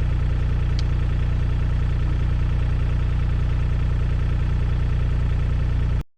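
New Holland mini excavator's diesel engine running steadily, until it cuts off abruptly near the end.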